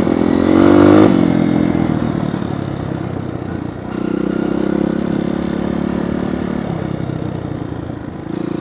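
Dirt bike engine revving up about a second in, then running steadily, picking up again around four seconds in and easing off near the end, as the bike is ridden through soft sand.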